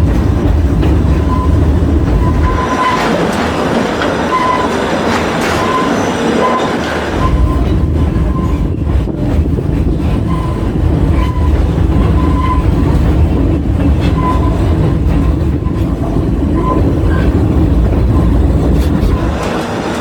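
Narrow-gauge visitor train running, heard from an open-air passenger car: a steady rumble and rattle of the cars and wheels on the rails behind a gasoline Plymouth locomotive. The low rumble drops away for a few seconds about three seconds in and then returns.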